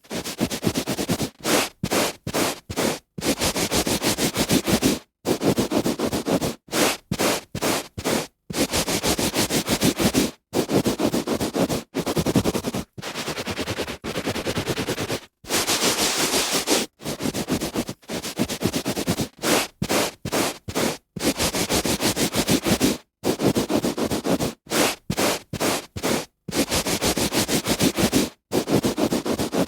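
A hand rubbing on a carpet: strokes of scratchy friction noise, some short and quick, some a second or two long, broken by sudden silent gaps.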